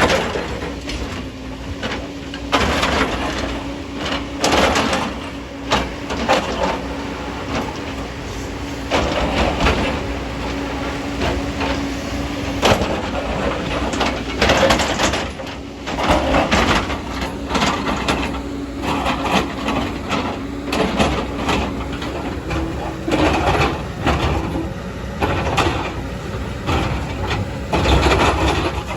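Excavator at work: a steady engine hum runs under repeated irregular bursts of scraping and clattering as earth and stones are dug and dumped.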